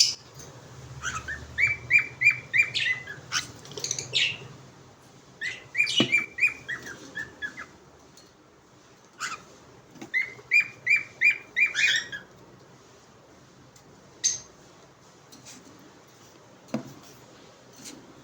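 Small pet parrot chirping in three quick runs of short repeated notes, about four or five a second, with single sharp calls between them and quieter gaps toward the end.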